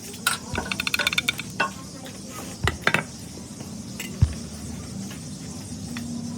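Metal tools clinking and knocking against metal parts, with a quick run of clicks about a second in and a few single clanks after.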